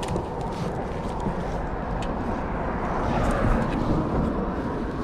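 Steady rumble of road traffic, swelling slightly about three seconds in as a vehicle passes, with a few faint clicks.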